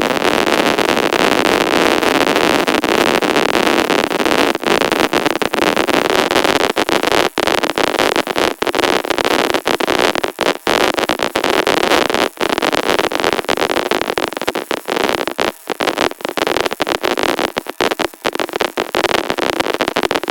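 Electric welding arc laying a fillet weld pass, a steady loud crackling hiss. From about seven seconds in it breaks up more and more with short gaps where the arc cuts out and restrikes.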